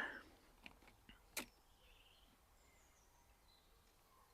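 Near silence with a single sharp click about a second and a half in, likely metal cookware being handled, and faint birdsong in the woods behind it.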